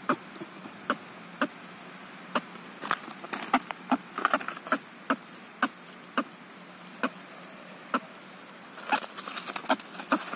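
Irregular sharp taps or clicks, about one or two a second, coming in quicker flurries about a third of the way in and again near the end.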